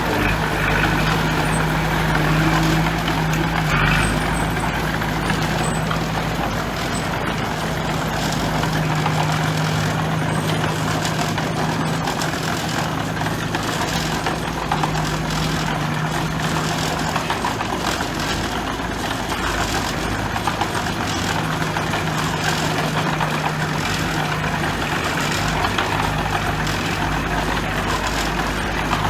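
Heavy diesel engine of earthmoving machinery running steadily, with a low engine hum that drops away for a few seconds past the middle and then comes back.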